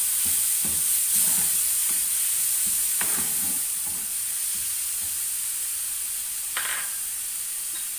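Onion, garlic-ginger paste and spices frying in oil in a frying pan, sizzling steadily while a spatula stirs and scrapes through the mixture.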